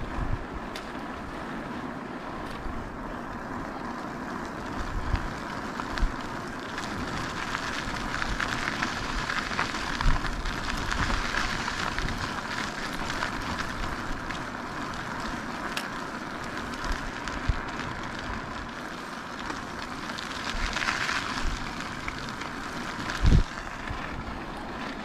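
Steady wind noise on the microphone and rolling noise from an e-bike being ridden along, broken by occasional short low thumps, the loudest a couple of seconds before the end.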